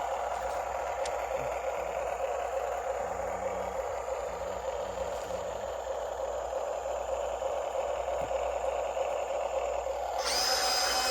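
Model RC excavator running with a steady mechanical hum from its motor and hydraulic pump. About ten seconds in, a higher-pitched whine joins in and the sound gets a little louder.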